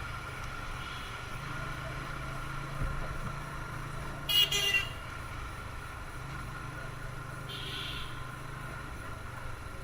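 A TVS Apache RTR 160 motorcycle's single-cylinder engine running steadily while riding in traffic. A short, loud vehicle horn toot about four and a half seconds in, and a fainter honk near eight seconds.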